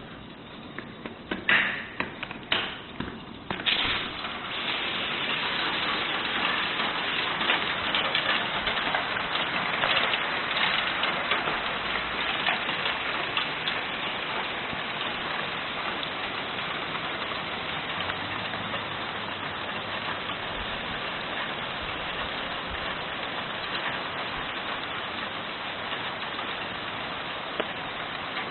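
Hailstorm: a few scattered loud hits of hailstones, then about four seconds in the fall thickens into a dense, steady clatter of hail and rain.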